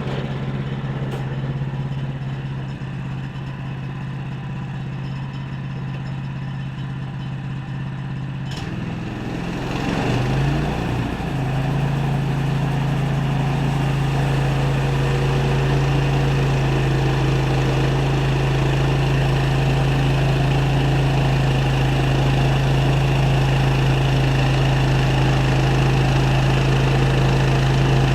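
Sawmill's engine running with a steady hum. About ten seconds in its pitch wavers as it changes speed, and it then runs steady and louder.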